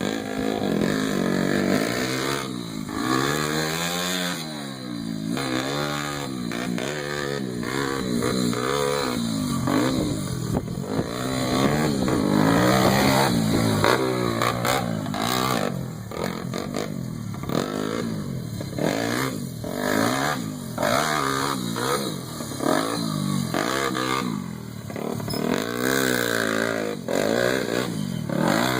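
Pit bike engine running as the bike is ridden, its pitch climbing and falling again and again with the throttle.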